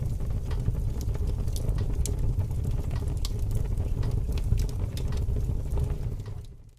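Aquarium running: a steady low rumble of water and pump with a faint steady hum and scattered small ticks of bubbles or splashes. It fades out near the end.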